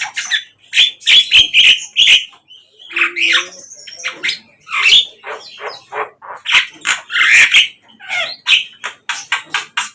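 Sikatan londo, a flycatcher kept as a songbird in Indonesia, singing a busy, varied run of quick chirps and sharp short notes with hardly a pause.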